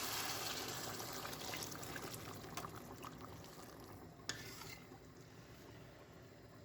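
Kitchen food preparation: a soft hiss that is loudest at first and slowly fades, with light taps of utensils and one sharper click about four seconds in.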